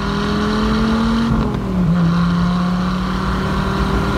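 1994 Dodge Viper RT/10's 8.0-litre V10 pulling under acceleration, its pitch climbing slowly, dropping sharply about a second and a half in at an upshift, then climbing again.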